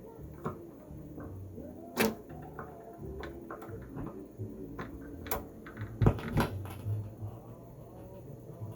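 Several sharp clicks and knocks, the loudest about two seconds in and a close pair about six seconds in, over faint sound from a Zenith F594W under test after repair.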